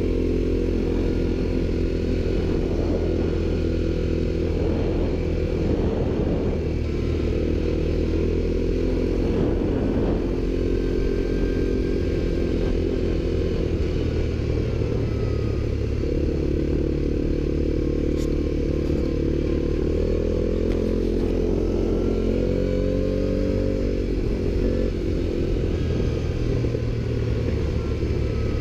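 ATV (quad bike) engines running, the pitch rising and falling as the throttle changes.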